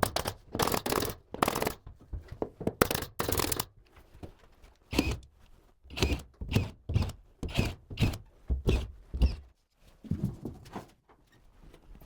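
Irregular knocks and thuds from carpentry work on a suspended ceiling, several in quick succession, then spaced out.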